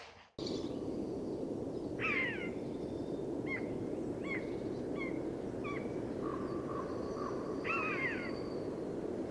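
Bird calls over a steady rushing background: clear, downward-sliding calls about two seconds in and again near the end, with a run of short chirps between them.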